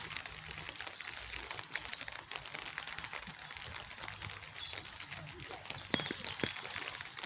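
Rain falling, a dense, steady patter of many small drops, with a few short bird chirps.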